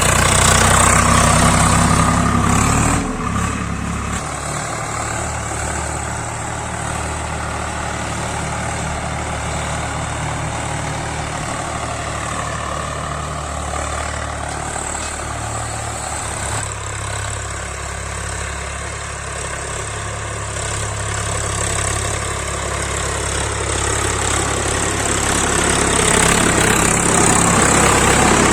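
Swaraj 855 FE tractor's three-cylinder diesel engine running steadily while pulling a cultivator; louder for the first few seconds, dropping about three seconds in, and growing louder again near the end.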